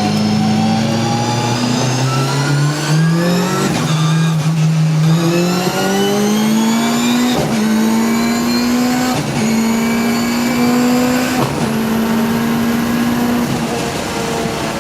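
A performance car's engine accelerating hard through the gears, its pitch climbing in each gear and dropping sharply at each of four quick upshifts.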